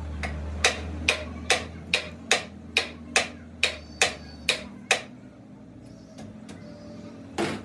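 A hammer striking metal in a steady rhythm, a little over two blows a second, each with a short metallic ring. The blows stop about five seconds in, and there is one louder knock near the end.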